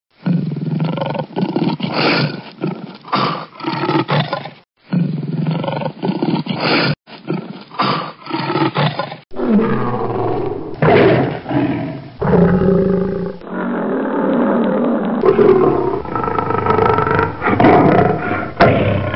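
Big cats roaring again and again, from several separate recordings joined one after another with abrupt cuts between them.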